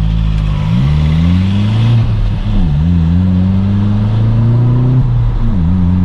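Vauxhall Corsa D engine through a straight-pipe Hornet exhaust, accelerating: the revs climb, fall sharply at a gear change about two and a half seconds in, climb again, then fall at a second gear change near the end and hold steady.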